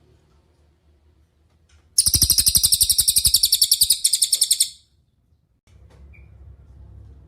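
A cililin songbird singing: a fast, high rattling trill of about ten sharp notes a second, starting about two seconds in and lasting nearly three seconds, followed by one faint short note.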